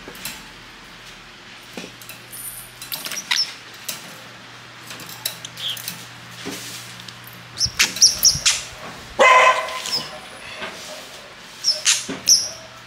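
Parrots calling: scattered short, high chirps, with harsh, loud squawks about eight and nine seconds in and again near the end.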